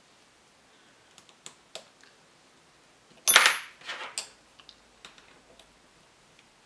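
Small metal parts or tools handled on a workbench: a few light clicks and taps, then a loud metallic clatter with a short high ring about three and a half seconds in, followed by a few more small clicks.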